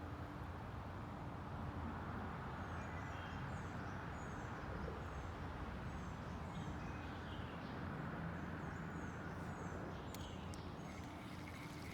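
Steady outdoor rushing noise with a faint low hum beneath, and a bird chirping over it in many short, high, quick notes from about two seconds in until near the end.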